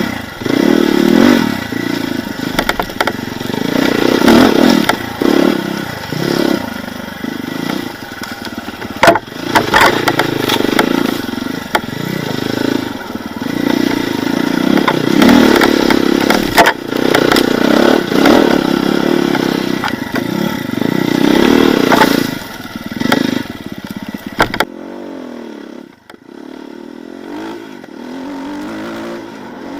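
Off-road vehicle's engine revving hard in repeated surges while it drives over rough forest ground, with knocks and clatter from the vehicle. About 25 seconds in the revving stops and the engine drops to a lower, steadier running.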